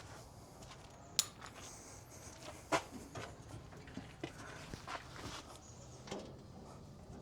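A few faint, scattered clicks and knocks from hand work on car body panels being adjusted for fit, with two sharper knocks about a second in and just before three seconds.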